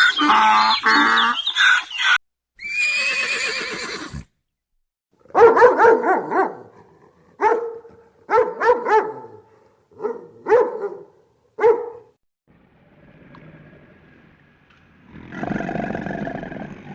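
A run of different animal calls, one clip after another. In the middle a dog barks about eight times in short, separate barks, and other pitched calls come before and after it.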